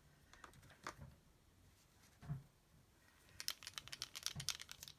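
Faint desk-handling sounds: two soft knocks, then a quick run of small sharp clicks and taps in the second half, like a pen and craft supplies being handled on a tabletop.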